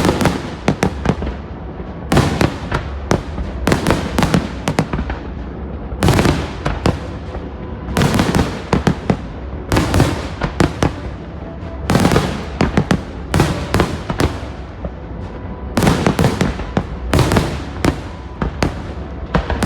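Fireworks display going off in volleys of sharp bangs and crackles, a new cluster about every two seconds, with music faintly underneath.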